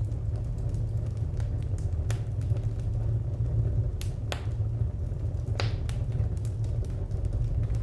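Wood fire crackling: scattered sharp pops and snaps, a few louder ones near the middle, over a steady low rumble.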